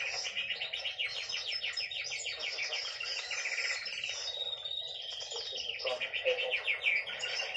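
Hen (female) canary singing a continuous song of rapid trills and repeated notes.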